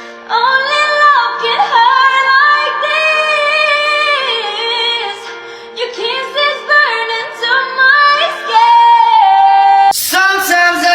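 Music with a high female or child voice singing a melody, holding and sliding between notes; the music changes abruptly near the end.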